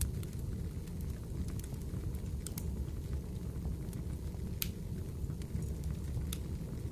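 Fireplace crackling: a steady low rush of burning with a few irregular sharp pops and snaps.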